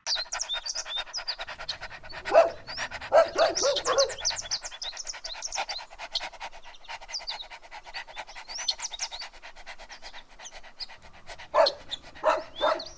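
Puppies yipping and barking in two short clusters, a couple of seconds in and again near the end, with birds chirping throughout.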